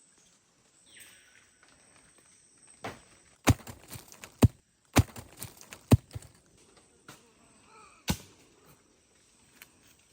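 A series of sharp knocks: five loud strikes roughly a second apart, with lighter taps between them.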